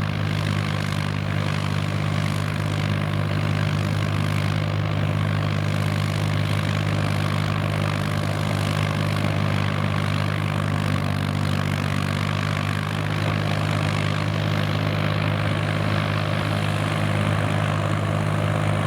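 Kubota M5000 tractor's diesel engine running steadily at a constant speed, with an even hum throughout.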